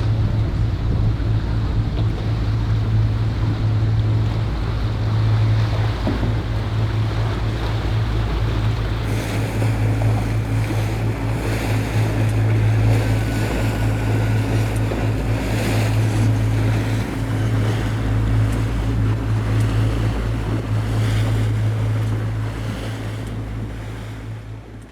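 A steady low motor drone under rushing wind and water noise, fading out at the end.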